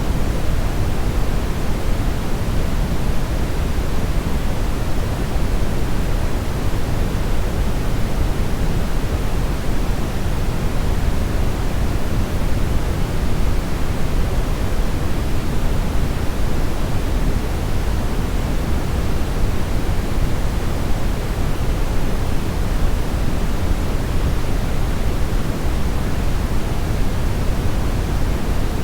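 Steady synthetic brownish noise: an even rushing hiss weighted toward the low end, with no changes or events.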